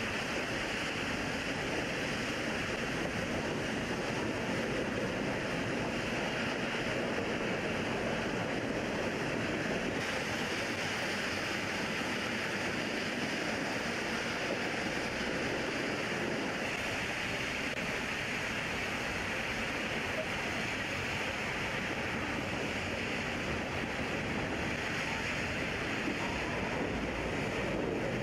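Steady rushing noise of a moving mountain railway train heard from on board, running noise and wind on the microphone mixed, with no distinct chuffs or rail clicks.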